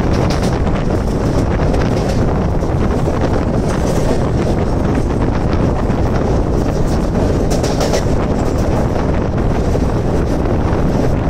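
Mumbai suburban electric local train running at speed, its wheels rumbling on the rails, with heavy wind buffeting the microphone at the open doorway.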